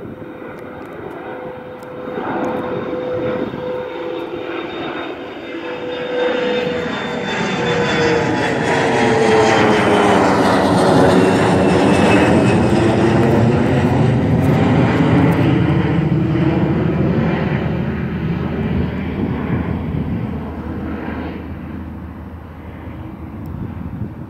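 Departing airliner's engines passing close by: the noise swells to a peak about halfway through, then fades away. Its whining tones fall in pitch as it goes past, and there is a sweeping, phasing whoosh at the loudest point.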